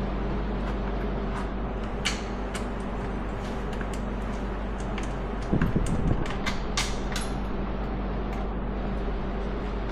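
Scattered clicks and light knocks of parts and tools being handled during ATV repair work, with a cluster of louder thumps about five and a half seconds in, over a steady background hum.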